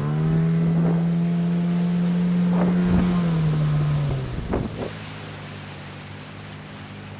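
A small boat's outboard motor is throttled up, runs faster for about three seconds, then is eased back to a lower, quieter speed about four seconds in. A few short knocks come during the faster running.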